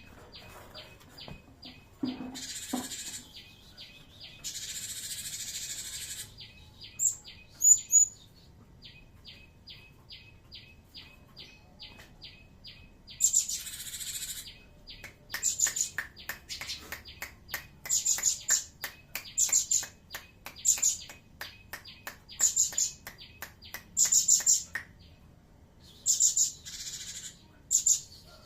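Gelatik batu (cinereous tit) calling with quick, sharp high chirps in rapid clusters through the second half, after hissy bursts and a regular ticking of about three a second earlier on.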